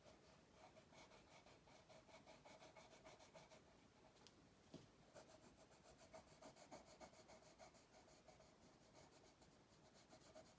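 Faint scratching of a coloured pencil drawing on paper, in quick repeated strokes.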